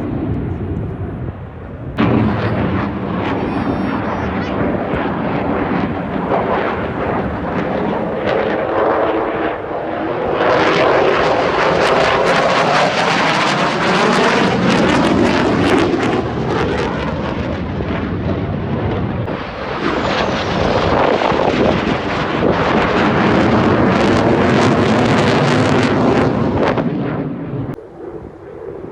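Thunderbirds F-16 fighter jets flying past with a loud jet roar. It comes in suddenly about two seconds in and swells in two surges, with a sweeping, phasing whoosh as they pass, then falls away near the end.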